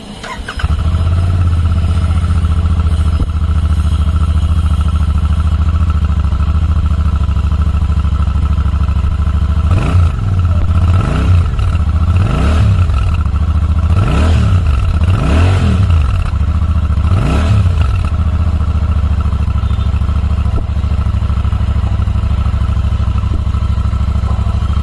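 Royal Enfield Super Meteor 650's 648 cc parallel-twin idling through its exhaust. Midway through it is given about six quick throttle blips, each rev rising and dropping back, then it settles back to a steady idle.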